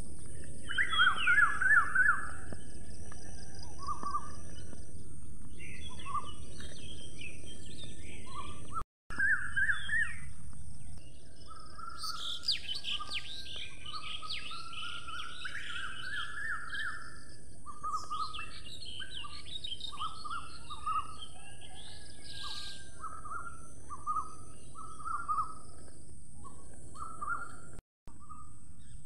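Several birds chirping and calling in short repeated phrases over a steady background noise. The sound cuts out completely for a moment twice, about nine seconds in and near the end.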